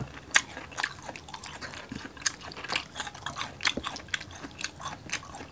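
Close-miked chewing and mouth sounds of people eating crispy pork belly (liempo): an irregular run of sharp clicks and smacks.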